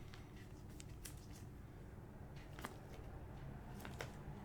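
Faint handling of trading cards: a few soft, scattered clicks and slides of cards over a low steady room hum.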